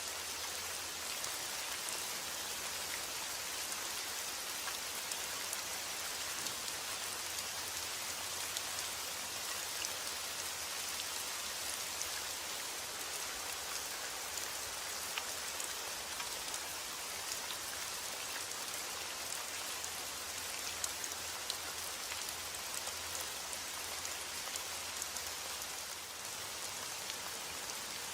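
Steady rain falling on a surface, a dense even hiss sprinkled with many small drop ticks.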